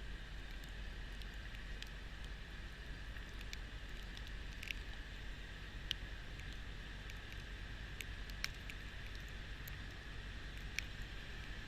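Kubota B2650 compact tractor's diesel engine and B2782 front-mount snowblower running steadily, a constant low hum under a steady noisy drone, with a few sharp ticks scattered through it.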